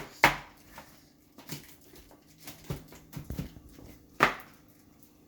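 Aluminium foil crinkling in a few sharp crackles as it is pressed by hand over a plastic bowl, the loudest just after the start and about four seconds in.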